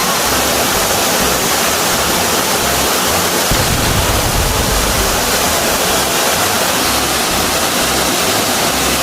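Saeng Chan waterfall, water pouring through a hole in the rock into a deep pool, making a loud, even rush. A deeper rumble swells for about a second and a half partway through.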